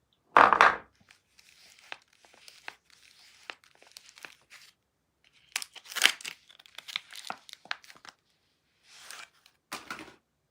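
Soap packaging being torn open and crinkled: a loud burst of tearing about half a second in, then crinkling and rustling with small clicks, another loud cluster of tearing around six seconds in, and more rustling near the end.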